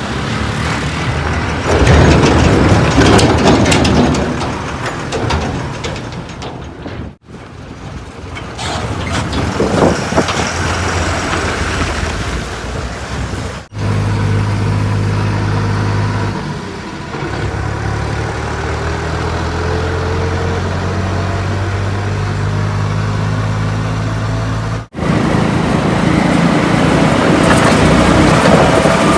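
Heavy diesel vehicle engines running, in several short clips cut together with abrupt breaks between them. The middle clip holds a steady engine drone.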